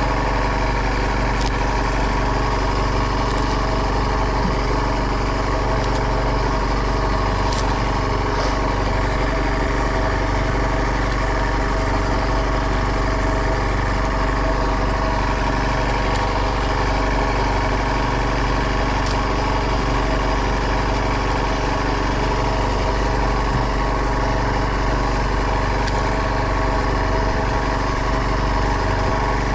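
Small boat engine running steadily at a constant speed, with an even, unchanging drone.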